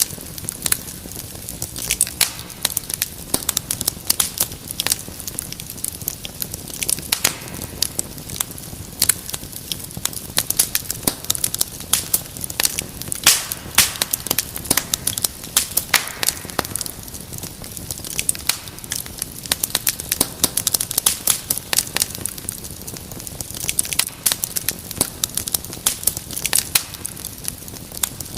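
Wood fire crackling in a fireplace: dense, irregular sharp pops and snaps over a steady low hiss of burning.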